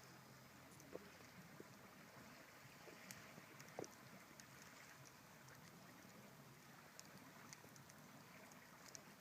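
Campfire crackling faintly: a soft steady hiss with scattered small pops and snaps, the sharpest about four seconds in.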